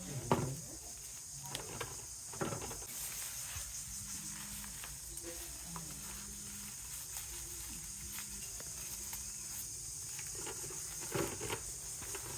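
Dry grass or straw strands rustling and crackling as they are handled and woven by hand. A few short sharp crackles come in the first two and a half seconds and again near the end, over a steady high hiss.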